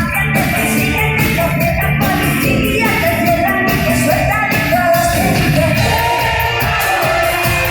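A live pop-rock band playing with a woman singing the melody, loud and continuous, with the echo of a large hall.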